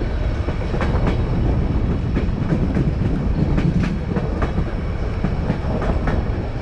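White Pass & Yukon Route narrow-gauge passenger car rolling along the track, heard from its open end platform: a steady low rumble of wheels on rail with irregular sharp clicks as the wheels pass over the rail joints.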